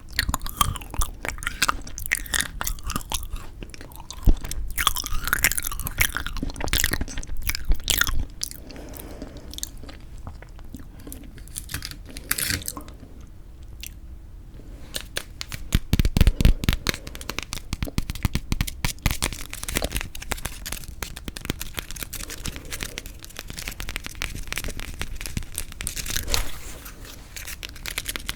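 Close-miked eating of frozen yanggaeng (sweet red bean jelly): crunching and chewing with crisp crackles, busiest in the first eight seconds and again in a burst about sixteen seconds in.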